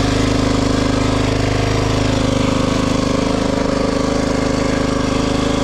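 Motorcycle engine idling steadily with the choke on, just after a start on a weak battery.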